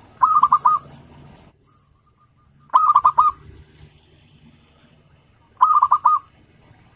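Zebra dove (perkutut) cooing: three short phrases of about five quick, clipped notes, each phrase about half a second long and coming about every three seconds.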